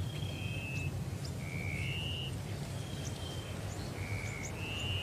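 Birds calling in open country: short, clear, level whistles come about once a second, often a lower note followed at once by a higher one, with thin rising chirps between them. A steady low rumble runs beneath.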